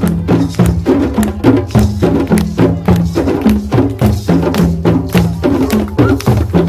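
African drum ensemble playing together in a fast, steady rhythm: sharp hand slaps over a repeating pattern of low bass notes.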